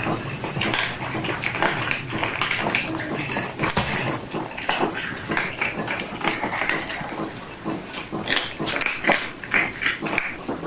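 A cat making short, irregular vocal sounds, over and over.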